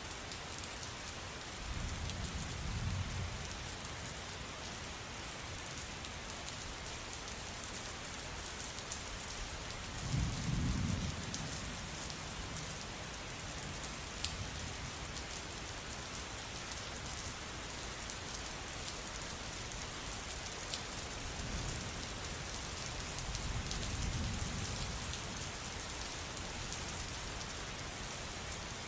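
Steady rain falling with a constant hiss and scattered sharp drop ticks. Low rolls of thunder rumble through it three times: about two seconds in, around ten seconds in, and a longer one in the last third.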